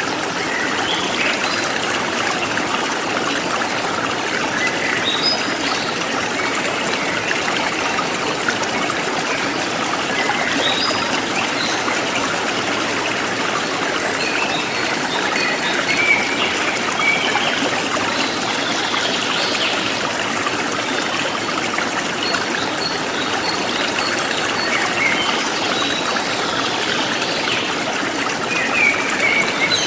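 A forest stream flowing steadily, with small birds chirping briefly now and then.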